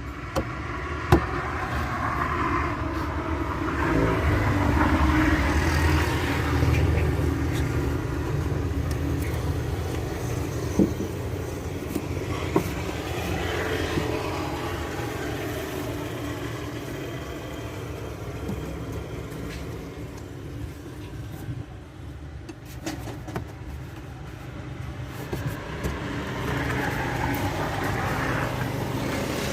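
Steady low rumble of a motor vehicle, with a few sharp knocks.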